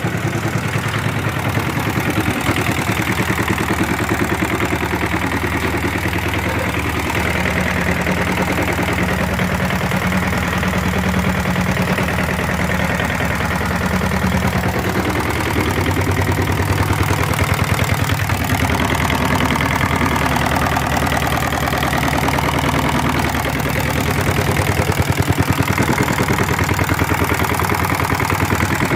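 Hatz diesel engine running steadily with an even, rapid firing beat and no change in speed.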